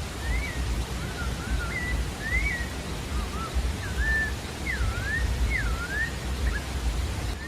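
Pale-breasted thrush (sabiá-da-várzea) singing: a continuous run of short whistled phrases that swoop up and down in pitch, over a steady low rumble and hiss.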